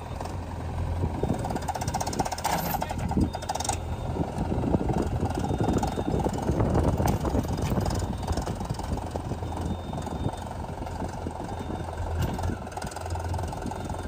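Diesel engine of a heavy farm or construction machine running steadily with a deep hum, a little louder in the middle.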